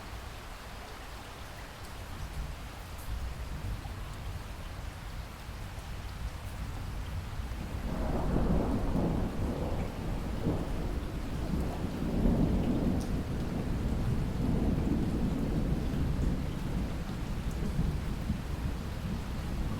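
Steady rain, with a long roll of thunder coming in about eight seconds in, loudest a few seconds later and dying away slowly.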